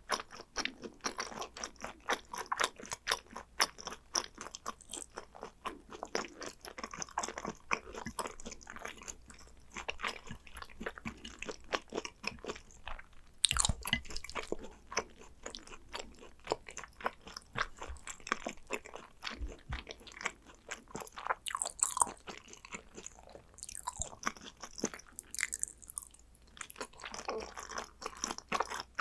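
Close-miked eating of a hanwoo yukhoe (Korean raw beef) meal: steady chewing and crunching, mouthful after mouthful, with many quick clicks. A single sharp knock comes about halfway through.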